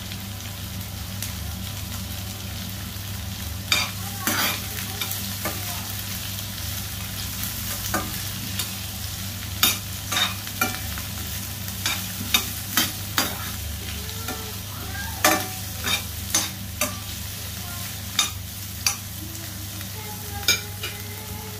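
Sliced onions and aromatics sizzling steadily in hot oil in a stainless steel wok. From about four seconds in, a metal spatula stirs them, tapping and scraping against the pan in irregular sharp clicks.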